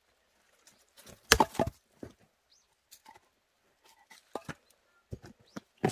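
Irregular sharp clicks and knocks, with a louder cluster of knocks about a second and a half in.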